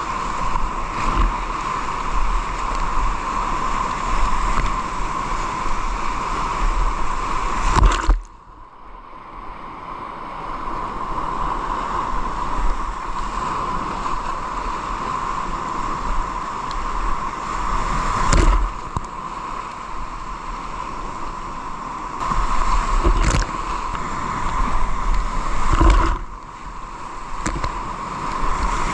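Steady rush of water around a kayak, with low wind rumble on the microphone and several sharp knocks or splashes. The sound cuts off suddenly about eight seconds in and builds back up over the next few seconds.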